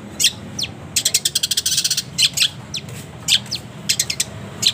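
Long-tailed shrike (cendet) calling: a series of short, sharp chirps and quick down-slurred notes, with a fast rattling run of notes about a second in.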